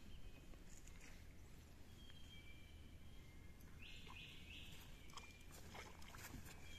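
A bird gives three short, high calls in quick succession about four seconds in, after a thin whistled note about two seconds in, over a faint low hum.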